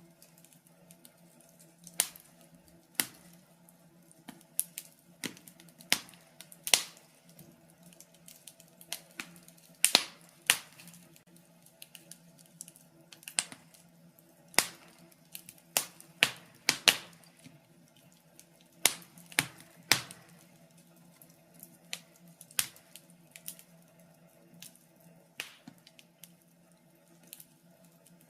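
Wood fire crackling in a fireplace, with irregular sharp pops and snaps at varying loudness over a faint low hum.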